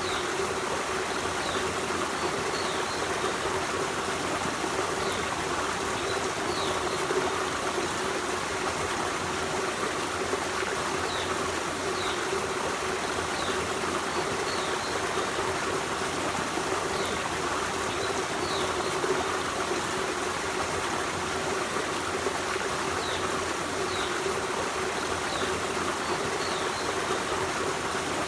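Forest stream running steadily over rocks, an even rush and babble of water. Faint, short high chirps come every second or two over it.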